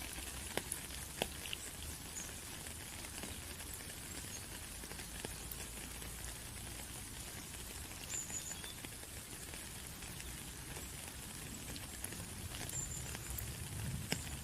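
Steady rain with many small scattered raindrop ticks and patter.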